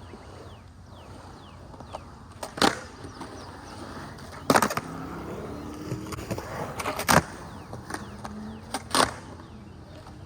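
Skateboard rolling on concrete, with four sharp clacks of the board landing from shove-its, the second a quick double.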